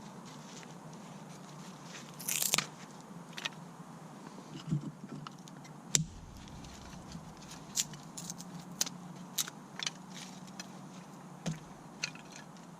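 Mora Companion knife carving curls off a stick of wood for feather sticks: a longer crunching scrape about two seconds in, then scattered sharp cracks and clicks of the blade biting into the wood.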